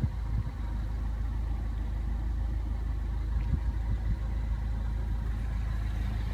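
2015 MINI Cooper S Countryman's turbocharged four-cylinder engine idling steadily, heard from inside the cabin as a low hum, with a few faint knocks.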